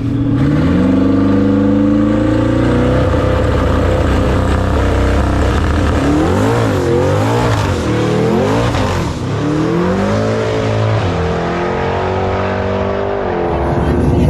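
Race car engine running loud and revving: its pitch climbs in the first couple of seconds, swings up and down several times in the middle, then holds steadier near the end.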